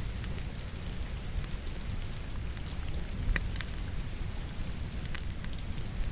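Steady rain mixed with logs burning in a fireplace, the fire giving scattered sharp crackles and pops, the sharpest about three and a half seconds in.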